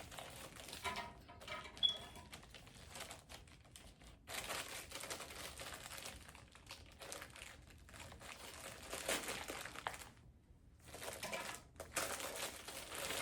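Plastic packaging bags crinkling and rustling in irregular bursts as they are handled and opened, with a brief pause near the end.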